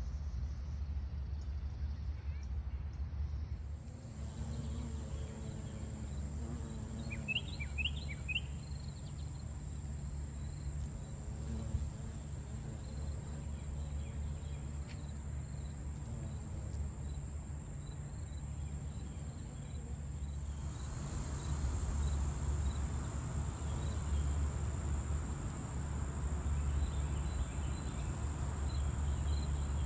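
Insects singing one steady high-pitched note, growing louder about two-thirds of the way through, over a low rumble. A few quick chirps, likely a bird, come about seven seconds in.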